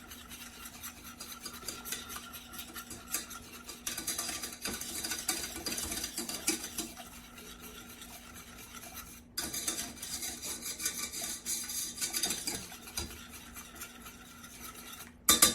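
A whisk beating rapidly against the inside of a vessel, a quick scraping clatter as hot oil and water phases are whisked together to start the emulsion, with a brief pause about nine seconds in and a louder clatter near the end.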